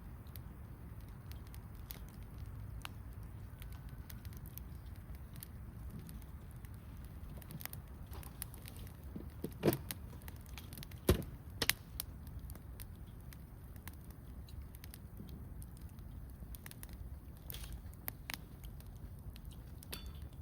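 Wood campfire burning with a steady low rumble and scattered small crackles, and three louder pops about halfway through.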